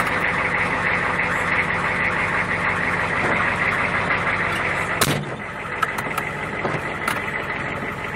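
Diesel engine idling just after a cold start, with one sharp clunk about five seconds in, after which the sound gets a little quieter.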